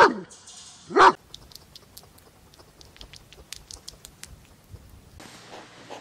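A German Shepherd dog barks, the second bark about a second in. Then comes a hedgehog's faint, scattered clicking as it chews. Near the end, hedgehogs start snuffling in a steady rhythm.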